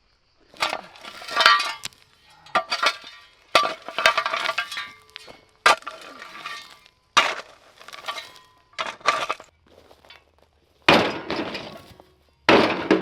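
Hard, brittle objects crashing and clinking together, about a dozen times in a row, like debris or broken glass being tipped or thrown.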